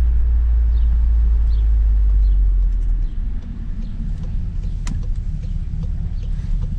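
Volkswagen Golf 7 R with an Akrapovic exhaust driving: a steady low engine and road rumble that eases off about three seconds in, with a single sharp click a little later.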